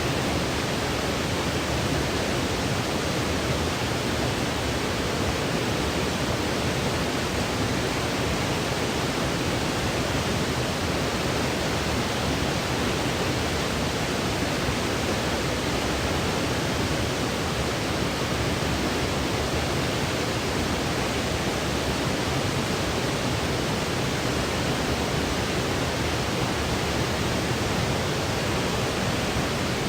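Steady white noise for sleep: an even, unchanging hiss, fuller in the low end than the top.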